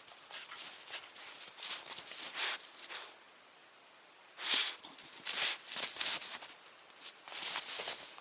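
Footsteps in snow, irregular, with a short pause about three seconds in.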